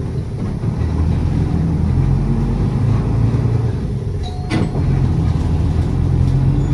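City bus engine running under way, heard from inside the passenger cabin, its low drone shifting in pitch as the bus drives. A single sharp click about four and a half seconds in.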